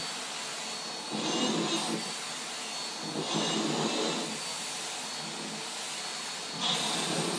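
Vacuum cleaner running steadily, swelling louder briefly about three times.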